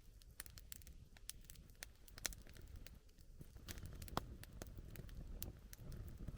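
Wood campfire crackling: irregular sharp pops and snaps, the loudest about two seconds in and again about four seconds in, over a low steady rumble.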